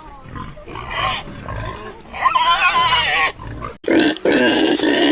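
Domestic pig grunting, with a pitched squeal lasting about a second a little over two seconds in, and louder, rougher grunts near the end.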